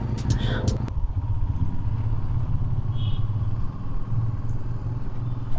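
Motorcycle engine running steadily with a low rumble as the bike is ridden. Background music stops about a second in.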